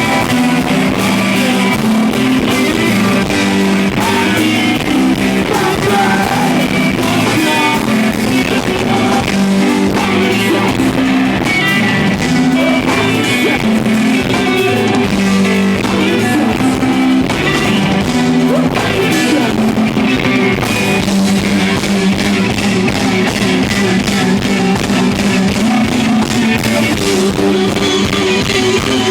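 A rock band playing live, loud and steady: electric guitar and drum kit, with some singing.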